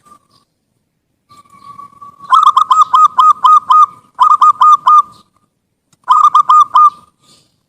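Zebra dove (perkutut) song: a soft drawn-out opening note, then three runs of quick, rhythmic coos. This is the call used as a lure to set other perkututs calling.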